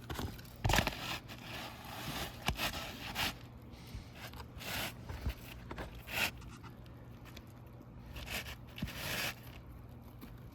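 Asphalt roofing shingles scraping and rasping against each other as a new shingle is handled during a shingle repair, in a string of short rough strokes with a few sharp knocks.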